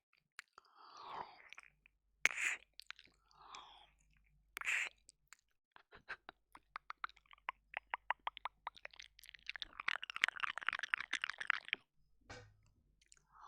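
Close-miked ASMR mouth sounds, ear licking and mouthing on a binaural microphone's ear. Soft breathy passes and a couple of sharp wet smacks come first, then a run of quick wet clicks that speeds up into a dense stretch of smacking for about two seconds near the end.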